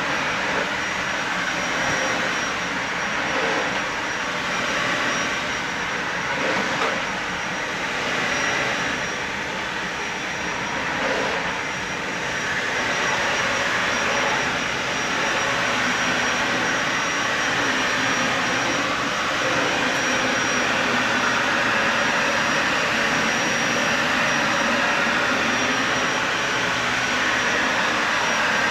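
Dyson Ball Animal 3 upright vacuum cleaner running on carpet: a steady whoosh of airflow with a thin high motor whine. The level wavers for the first dozen seconds or so, then runs steadier and slightly louder.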